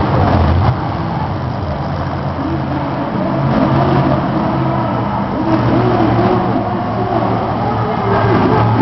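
Monster truck's supercharged V8 engine running loud, revving up and down repeatedly in the second half.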